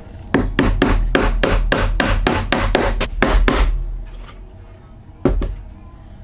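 Quick, evenly spaced strokes of a hand tool on pallet wood, about four a second for some three seconds, then one more stroke near the end.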